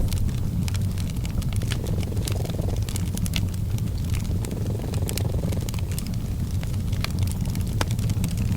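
A cat purring, a steady low purr that swells and eases with its breaths every two or three seconds, mixed with the irregular snaps and pops of a crackling wood fire.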